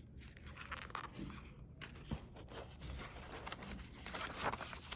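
Faint rustling and scraping as a picture book's pages are handled and turned, with a few soft clicks.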